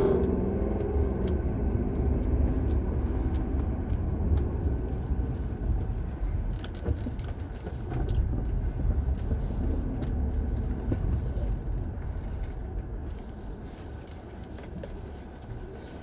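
A car on the move: steady low engine and road rumble, easing off somewhat over the last few seconds.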